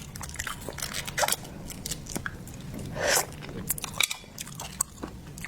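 Close-miked eating of seafood: chewing and biting with many irregular wet clicks and small crunches.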